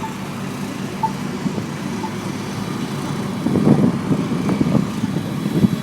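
Street traffic: a car driving past, a low rumble that grows louder about halfway through.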